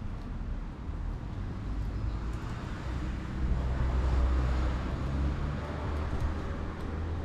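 A low, steady motor rumble with a hum, swelling about three seconds in and easing off again.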